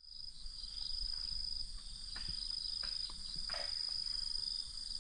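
Insects trilling in a steady, high-pitched chorus with a rapid even pulse, with a few faint knocks and rustles in the middle.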